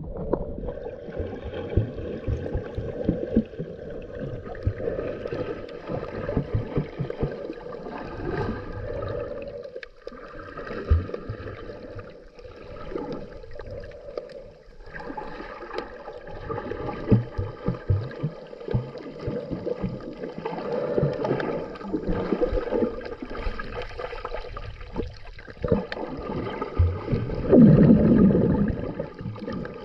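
Underwater sound picked up through a GoPro's waterproof housing: muffled water movement with irregular low knocks, and a louder gurgling rush near the end.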